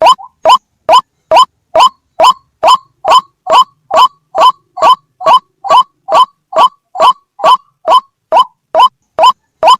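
White-breasted waterhen (ruak-ruak) calling loudly in a fast, steady string of short rising notes, a little over two a second, the noisy repeated call used to lure waterhens.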